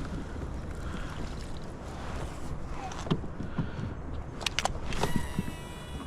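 Handling noise aboard a kayak on the water: a steady low rumble with a few sharp clicks and knocks, then a thin steady whine starting about five seconds in.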